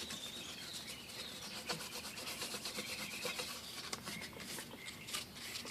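Sandpaper rubbed by hand over the lower intake manifold's gasket surface in quick, irregular strokes, scrubbing off leftover spots of residue. Quiet.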